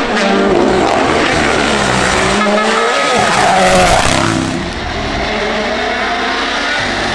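Rally car's turbocharged four-cylinder engine revving hard and dropping back through gear changes, over loud tyre and road noise. It is loudest as the car passes, about four seconds in.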